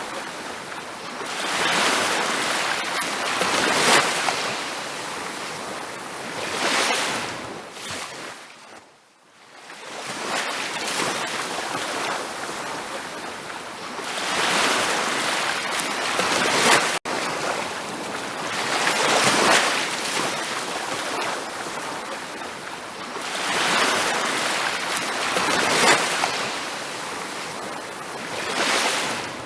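Ocean waves breaking and washing up a beach, swelling and receding every few seconds, with a deeper lull about a third of the way in. The sound cuts out for an instant about halfway through.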